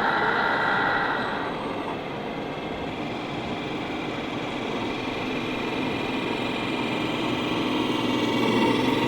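Engine sound of radio-controlled model trucks running steadily. A higher tone fades out about a second and a half in, and a lower engine note grows louder near the end.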